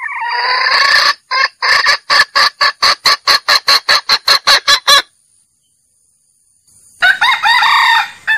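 Junglefowl calling: a drawn-out rising note, then a rapid run of clucks at about four a second for some four seconds. After a pause of about two seconds comes a shorter, harsher call near the end. These are the junglefowl calls used as a lure for trapping.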